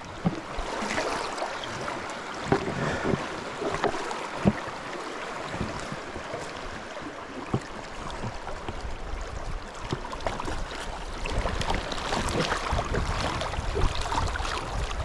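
River water running and splashing, with a few knocks along the way. Wind buffets the microphone from about halfway on.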